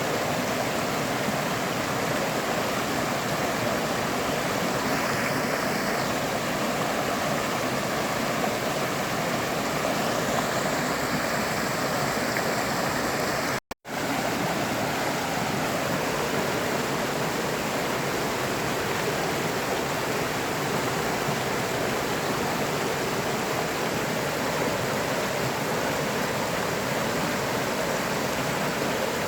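River water flowing steadily over rocks, an even rushing sound. The sound cuts out for a split second about halfway through.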